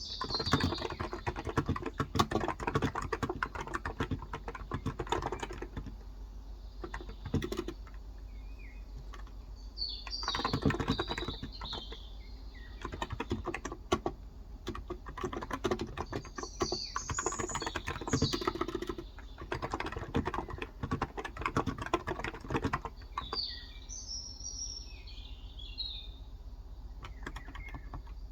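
Typing on a Cox Endeavor tenkeyless keyboard with 35 g electro-capacitive (non-contact) switches: runs of fast key presses broken by pauses of a few seconds, sparse near the end. Birds chirp in the background several times.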